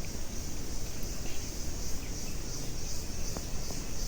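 A steady chorus of insects trilling high and faintly pulsing, over a constant low rumble.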